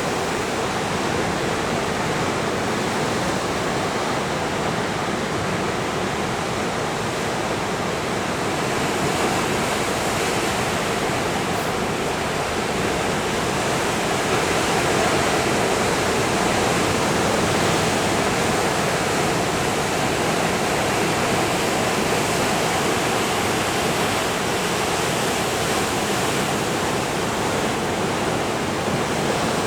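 Pacific Ocean surf breaking continuously: a steady rush of wave noise that swells a little about halfway through.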